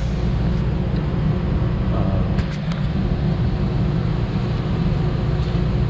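Steady low hum of boiler-room equipment, with circulator pumps and boilers running, and a few faint clicks about halfway through.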